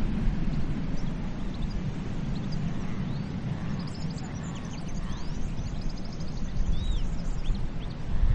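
Ocean surf rumbling steadily on a beach, easing a little midway, with birds chirping and whistling over it in short calls and trills.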